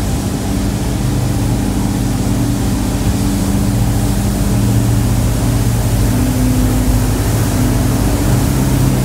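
Lamborghini Aventador's V12 running at low speed as the car creeps forward, a steady low engine note that grows slightly louder about halfway through.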